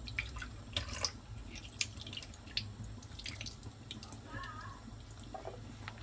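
Liquid from tinned butter beans draining and dripping into a kitchen sink, with irregular small splashes and clicks.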